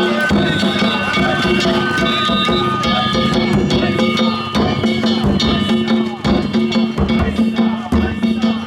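Danjiri festival music: taiko drums and hand gongs beaten in a fast, steady rhythm, with voices of the crowd and pullers mixed in.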